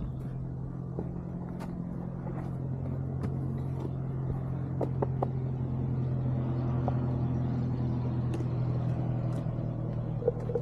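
Onewheel GT's hub motor humming steadily while the board rolls along a trail, with scattered light clicks and ticks from the tyre over the ground.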